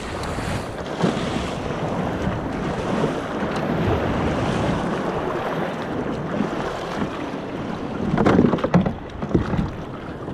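Water sloshing and waves breaking around a kayak on the open sea, with wind buffeting the microphone. About eight seconds in comes a short burst of louder splashing.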